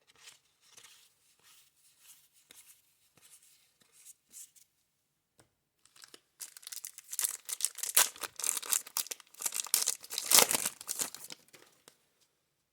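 A 1990 Score baseball card pack wrapper being torn open and crinkled. Light scattered handling comes first, then about five seconds of loud tearing and crinkling starting about six seconds in, loudest near the end.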